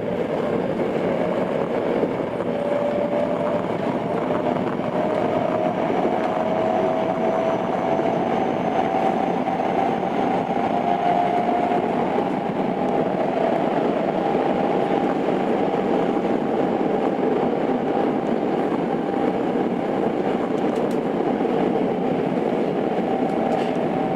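Tokyo Metro 02 series IGBT-VVVF train running between stations, heard from inside the car: a steady rumble of wheels on rail with a motor whine that rises in pitch over the first half as the train gathers speed, then holds steady.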